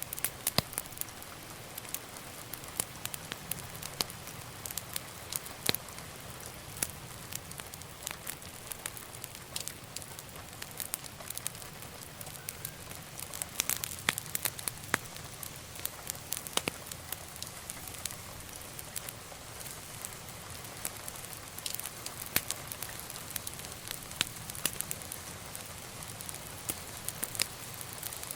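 Wood fire burning in a fireplace: a soft steady hiss with frequent sharp, irregular crackles and pops, busier about halfway through.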